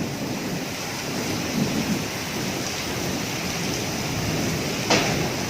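Heavy storm rain pouring steadily with low gusty rumbling, and a single sharp bang about five seconds in.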